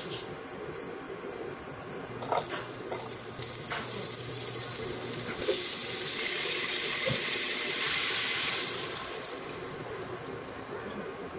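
Chicken pieces with onion and garlic sizzling in hot oil in a nonstick wok while being stirred with a spatula, with a few sharp knocks of the spatula against the pan. The sizzle builds to its loudest in the middle and dies down near the end as liquid is poured into the pan.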